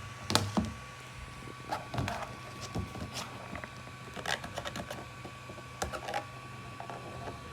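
Irregular clicks, cracks and knocks of a flexible print-bed sheet being handled and bent to pop a PLA print off it, with a faint steady hum underneath. The loudest crack comes about a third of a second in.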